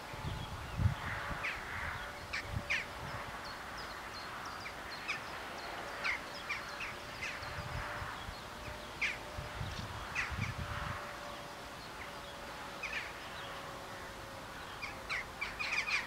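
Birds calling in short, irregular notes, with gusts of wind rumbling on the microphone and a faint steady hum underneath.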